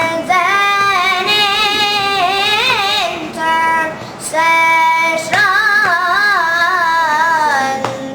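A child singing solo in long melodic phrases, with held notes that waver in vibrato and quick ornamented turns. There is a pause of about a second after the three-second mark, then the singing goes on.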